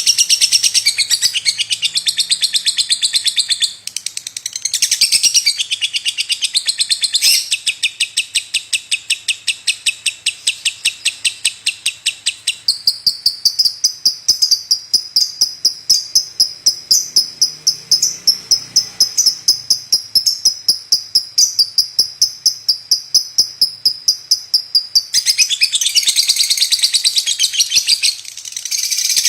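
Lovebird chattering in a long unbroken run of rapid, high-pitched chirps. About halfway through, the chatter narrows to a thinner, higher, fast trill, then fills out again near the end.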